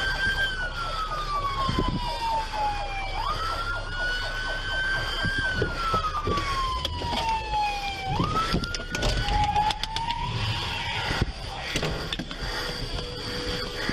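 Police car siren in wail mode, its pitch climbing quickly and then sliding slowly down over several seconds, twice. It cuts off about nine seconds in, and a few knocks follow.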